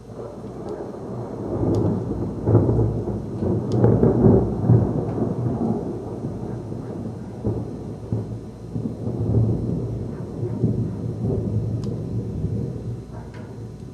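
Thunder rumbling after a nearby lightning strike: a deep rolling rumble that starts suddenly, swells to its loudest a few seconds in, then keeps rolling with smaller surges.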